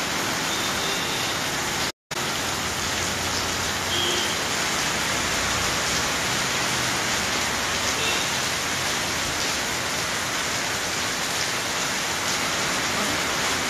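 Heavy rain falling steadily on a street and pavement, a dense even hiss. The sound cuts out for a moment about two seconds in, then the rain resumes.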